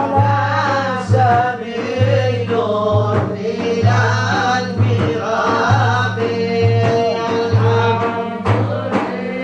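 A man singing a Sufi devotional song (inshad) in a melismatic Middle Eastern style. Under the voice a low pulse comes and goes about every second and a half.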